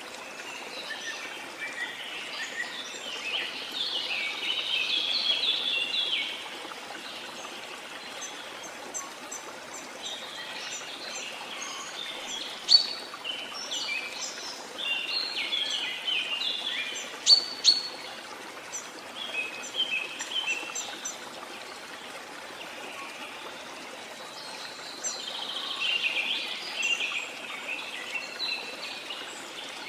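Steady rush of a waterfall, with birds chirping in bouts of quick, high notes over it.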